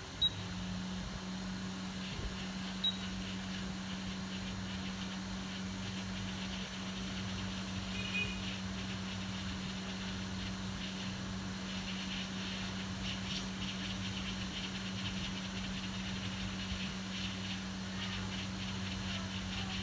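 Hot air rework station blowing: a steady hum with a hiss over it, switched on with a click just after the start, with another click a few seconds in.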